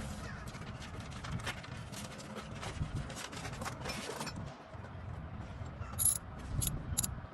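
Hand tools and metal parts clinking and scraping during work on a semi truck's EGR pipe and sensor, with a few sharp metallic clicks near the end.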